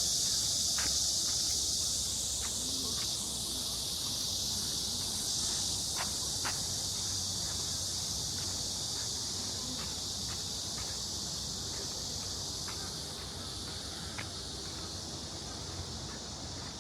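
A steady, high insect chorus, summer cicadas shrilling in the trees, easing off slightly near the end, with a few faint ticks.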